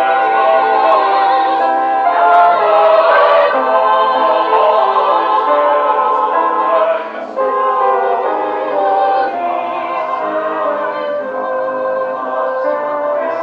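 Several classically trained voices singing in harmony, operetta style, with held notes and a short break between phrases about seven seconds in.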